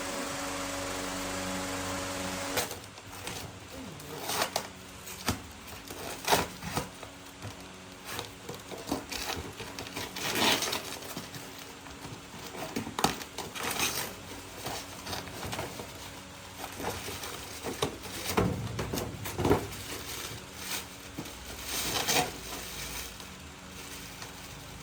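A steady machine hum that cuts off about two and a half seconds in, followed by irregular clicks and knocks, like tools and metal parts being handled.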